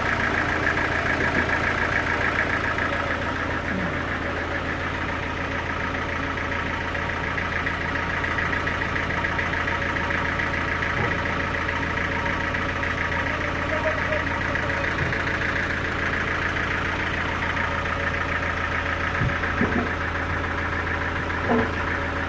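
Sawmill engine idling steadily: a constant low hum with a steady higher whine over it.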